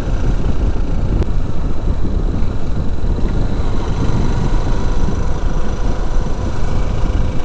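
Motorcycle on the move: engine and a dense, steady rumble of wind and road noise on the rider's microphone.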